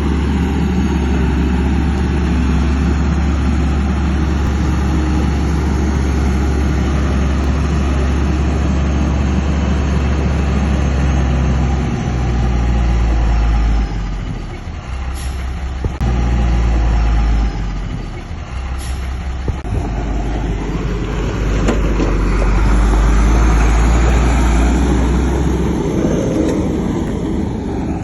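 Heavy diesel engines of construction machinery (bulldozer and dump trucks) running at work: a steady, loud, low engine drone that dips and comes back several times about halfway through. Two sharp clicks or knocks are heard in the middle.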